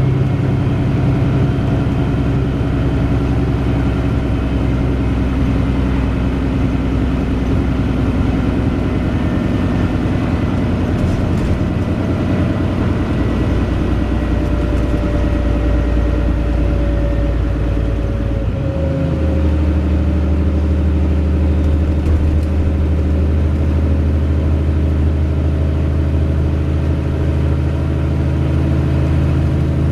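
Wright Pulsar Gemini 2 double-decker bus heard from on board, its engine and drivetrain running steadily under way, with a faint whine that slowly falls in pitch. The engine note shifts suddenly about two-thirds of the way through, as with a gear change.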